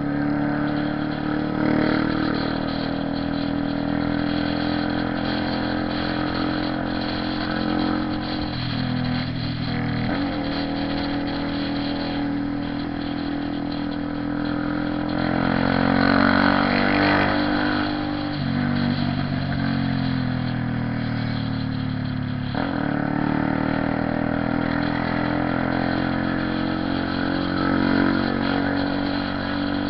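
Honda CB 300R motorcycle's single-cylinder engine and exhaust under way, the engine note climbing with revs and dropping sharply at gear changes several times.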